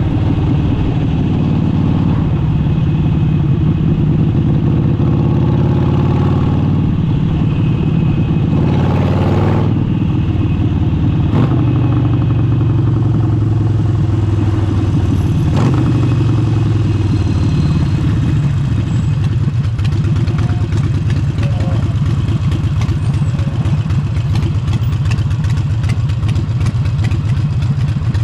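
Harley-Davidson Forty-Eight's air-cooled 1200 cc V-twin running through an aftermarket exhaust. The deep, steady exhaust note shifts up and down in pitch a few times.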